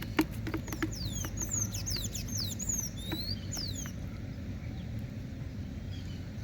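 A bird chirping rapidly: a quick string of high, sharply falling and rising whistles lasting about three seconds, with a few sharp clicks just before it. A steady low rumble runs underneath.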